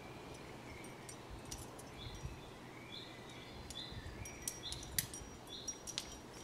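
Birds calling: a short high chirp repeated about once a second, with lower short calls in between. A few sharp clicks stand out, the loudest about five and six seconds in.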